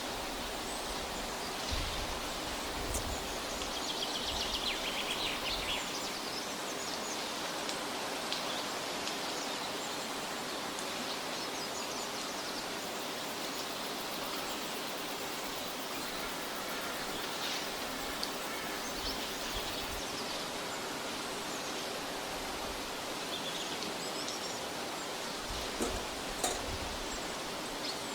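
Forest ambience: a steady rushing noise with birds chirping now and then, and a few light clicks near the end.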